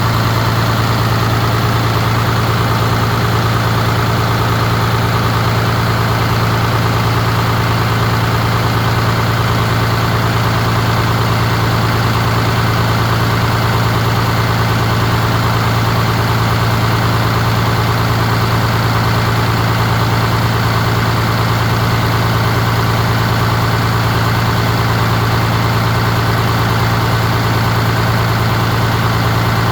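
Caterpillar diesel engine idling with a steady, even low rumble.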